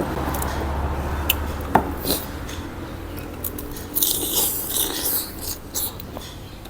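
Someone eating a bowl of noodle soup: a few light clinks of spoon or chopsticks on the bowl in the first two seconds, then mouth noises of eating about four seconds in.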